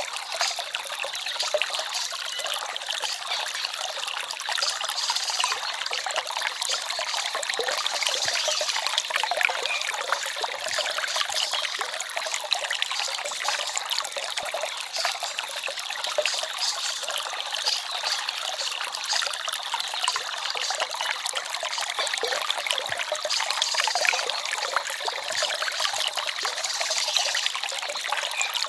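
Small forest stream babbling and trickling steadily: a light, busy splashing with little deep rumble.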